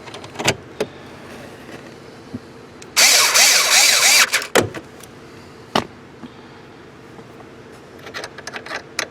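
Hands working on parts under a truck's dashboard: scattered clicks and knocks, with a loud noisy burst lasting about a second, about three seconds in.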